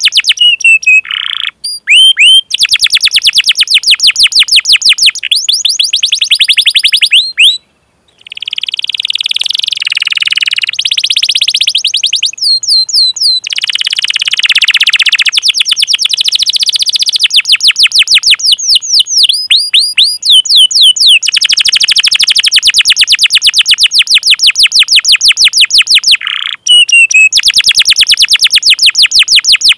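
Domestic canary singing a long rolling song: very fast trills of rapidly repeated chirps alternating with sweeping whistled notes, broken by a few short pauses.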